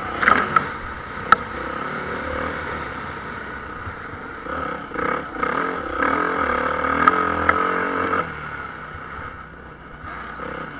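Motocross bikes racing, engines revving up and down. One bike passes loudly with rising and falling pitch about five to eight seconds in, then cuts off sharply. A few sharp clicks come near the start.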